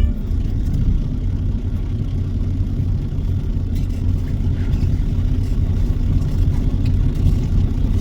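Truck running on the road: a steady low engine and road rumble, as heard from inside the cab.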